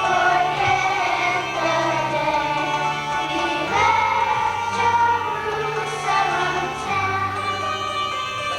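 Choir singing with instrumental accompaniment: long held notes that change pitch every second or so over a steady bass line.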